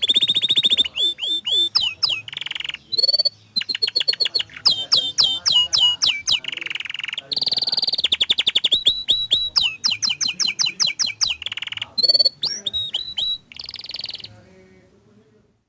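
Domestic canary singing a long, fast song of rolling trills and rapid runs of repeated downward-sweeping notes, breaking off near the end.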